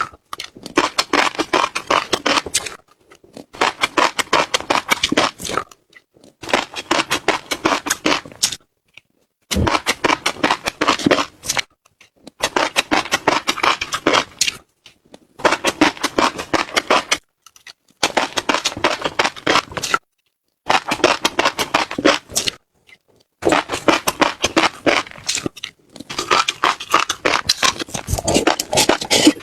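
Close-miked chewing of seeds, crisp crunching and crackling in about ten bouts of roughly two seconds each, separated by brief pauses.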